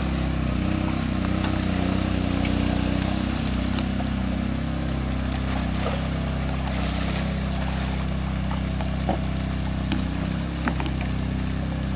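Engine running steadily at low speed, its pitch wavering slightly, with a few faint clicks on top.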